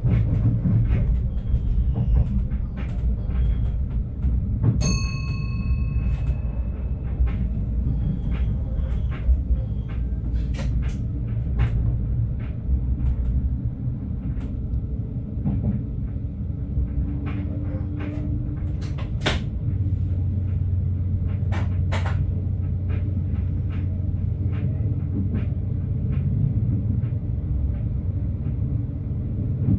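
Stadler GTW diesel-electric train heard from the driver's cab, its engine rumbling steadily while it shunts slowly over points, with scattered clicks and knocks from the wheels crossing rail joints and switches. A short electronic beep sounds about five seconds in, and the engine settles into a steadier low hum about two-thirds of the way through.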